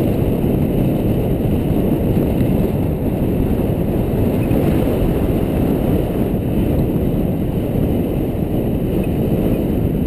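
A loud, steady, low rumble of noise with no distinct events in it.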